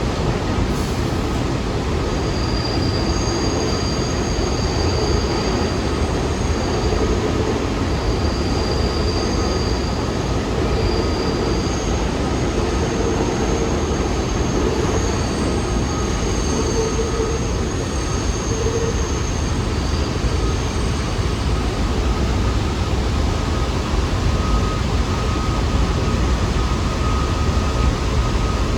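New York City subway train running through the station with a steady loud rumble, and high-pitched wheel squeals coming and going over the first two-thirds.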